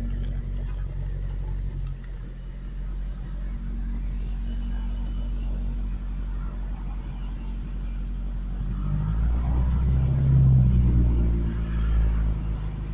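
Truck engine idling with a steady low rumble, then revved up about nine seconds in and easing back down near the end. The truck stalls when put into gear, which the owner thinks has something to do with the fuel.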